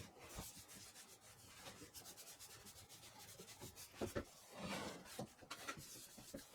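Faint, irregular rubbing of sandpaper on wooden floorboards, with a louder scrape about four seconds in and another just before five seconds.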